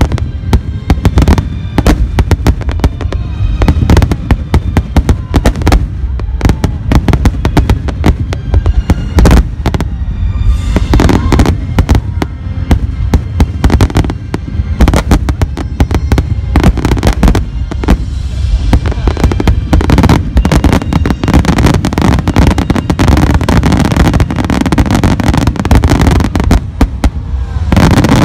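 Barrage of aerial firework shells bursting in rapid, overlapping succession, many bangs a second, with the sound growing denser in the last several seconds.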